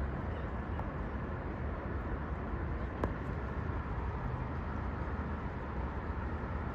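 Steady low rumble of road traffic, with one sharp click about three seconds in.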